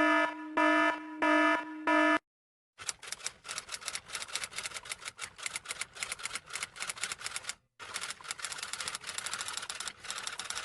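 Four short electronic beeps in quick succession, then, after a brief gap, rapid typing: a fast, uneven run of key clicks with one short pause partway through.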